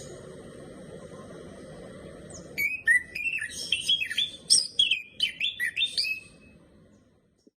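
Bird chirping: a quick run of short chirps, each sweeping in pitch, beginning about two and a half seconds in and lasting almost four seconds. Before it comes a faint steady high tone over a low hiss.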